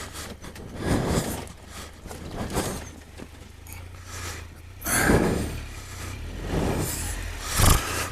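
Triumph Tiger 1200 three-cylinder motorcycle engine running at low revs, with irregular surges of noise as the bike picks its way down a rocky slope.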